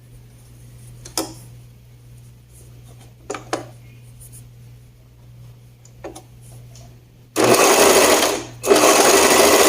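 Sewing machine stitching in two runs near the end, with a short pause between them, after a few light clicks.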